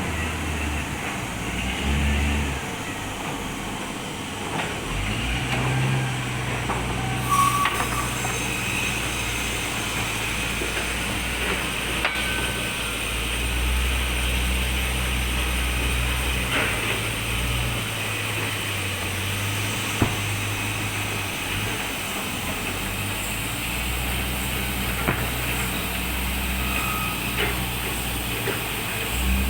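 Sawmill machinery running steadily, a low engine-like drone that swells and eases every few seconds as the load changes, with a few short knocks.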